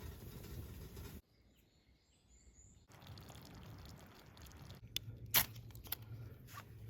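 Outdoor ambience with a few faint, high bird chirps, followed by a soft hiss and several sharp clicks or snaps, one of them much louder than the rest.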